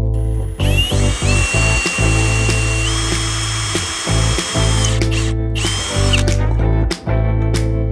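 Electric power drill running: one long run of about four seconds with its motor whine stepping up in pitch midway, then shorter bursts, over background music.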